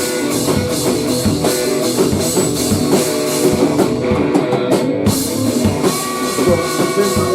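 Rock band playing an instrumental passage: a drum kit keeping a steady beat under electric guitar. The cymbals drop out for about a second midway.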